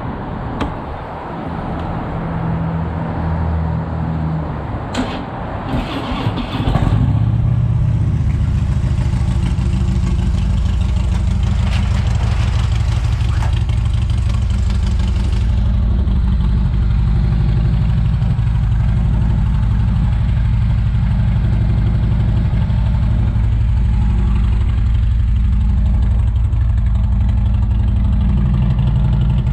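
2015 Harley-Davidson Road King's Twin Cam 103 V-twin with Vance & Hines exhaust, catching about seven seconds in and then idling steadily.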